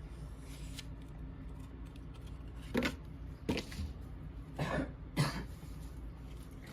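A person coughing and clearing her throat in four short bursts, starting about three seconds in.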